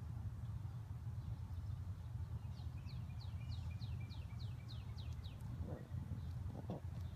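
A small songbird singing a run of about a dozen quick, high, down-slurred notes, about four a second, starting a couple of seconds in, over a steady low rumble.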